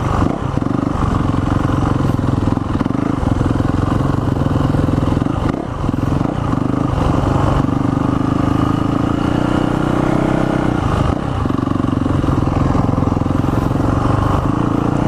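Dirt bike engine running at a fairly steady throttle on a motocross track, its note dipping briefly a few times as the throttle is eased off and opened again.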